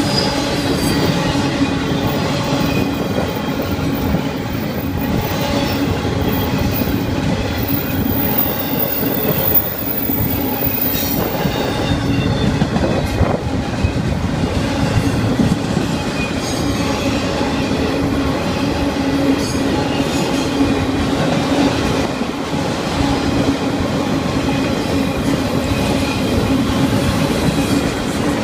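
Florida East Coast Railway freight train rolling past close by, double-stack container cars and then autorack cars: a loud, steady rumble and clatter of steel wheels on the rails.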